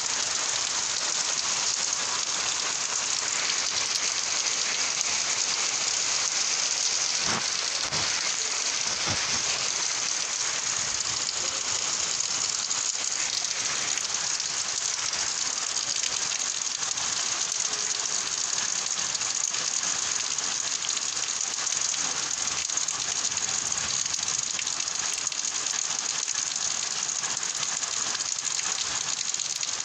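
Steady heavy rain falling on surfaces, an even dense patter.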